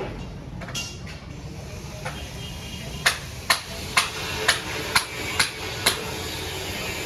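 A run of sharp, hard clicks, a few faint ones at first, then a regular series of about two clicks a second from about three seconds in, ending about a second before the end.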